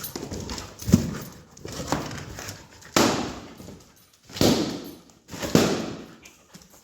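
Dog biting and chewing on party balloons: a series of rubbery scuffs and squeaks that each start suddenly and fade out, roughly a second apart, with a sharp knock about a second in.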